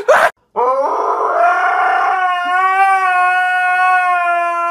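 A dog howling one long, loud howl that rises in pitch at first and then holds steady.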